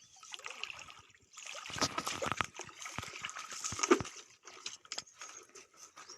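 Water splashing and sloshing in irregular bursts, loudest between about one and a half and four seconds in.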